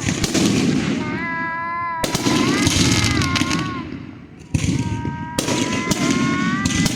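Fireworks going off: sharp bangs every second or two over a dense crackle, with high held tones about a second long between the bangs.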